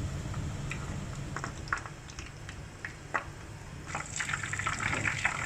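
Kitchen sounds: liquid being poured with light clicks over a steady low hum, then a pan starts sizzling about four seconds in.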